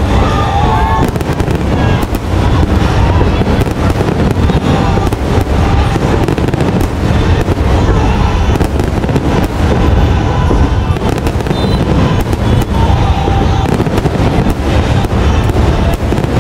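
Aerial fireworks shells bursting in a rapid, continuous barrage, the bangs running together with heavy low rumble and no lulls, picked up on a phone's built-in microphone.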